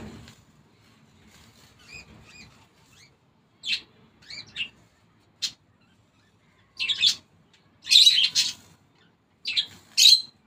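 Small birds chirping in short, separate bursts, a few calls at a time, busiest and loudest in the last few seconds.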